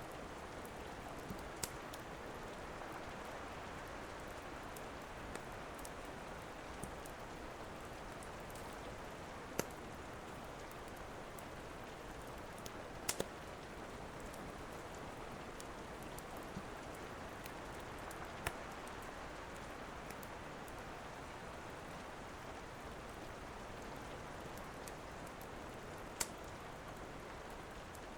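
Steady rain with a wood fire crackling, a few sharp pops standing out here and there.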